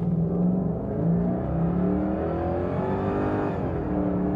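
Jaguar XK8's V8 under full-throttle acceleration in automatic, sport mode. The engine and exhaust note climbs steadily in pitch, drops sharply at an upshift about three and a half seconds in, then climbs again.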